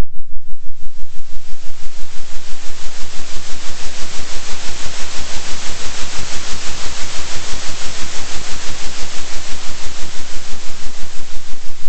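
Loud synthetic noise hiss pulsing in an even rhythm, about three swells a second: a 3 Hz oscillating noise track. The upper hiss grows brighter toward the middle, over a steady low hum.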